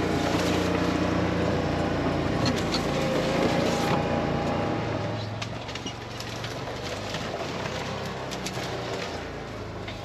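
A vehicle's engine running while driving, its pitch stepping up and down with engine speed, over road noise. It cuts off abruptly at the end.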